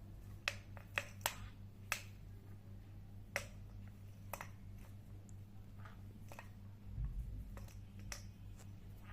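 A series of sharp, irregular clicks and taps, most of them in the first half, over a steady low hum.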